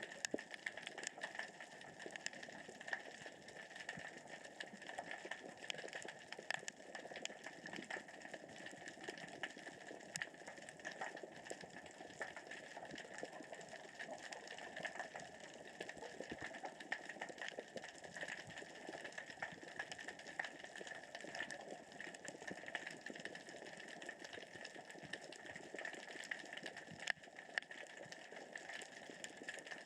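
Underwater sound of small rocks rolling across the sea floor with the current and tide: a steady, dense crackle of fine clicks.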